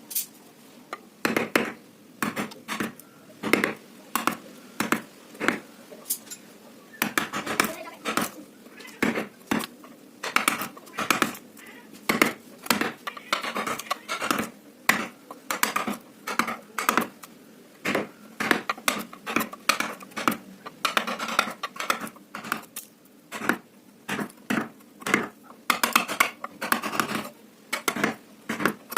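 Carving chisels tapped with a mallet into teak wood, in a run of sharp, irregular knocks about two a second, some coming in quick clusters.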